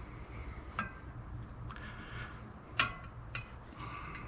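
A few sharp metallic clicks from a long 1/2 inch wrench working the last water pump nut, about one second in and again, louder, near three seconds, over a faint low hum.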